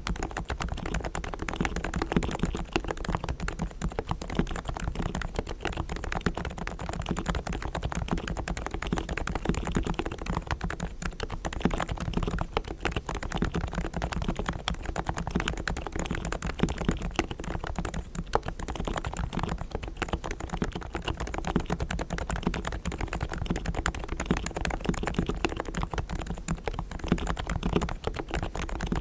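Fast continuous typing on a Realforce R3 tenkeyless keyboard with 45 g silent Topre electrostatic-capacitive switches, lubed with Krytox, the keystrokes a soft, muted, dense patter.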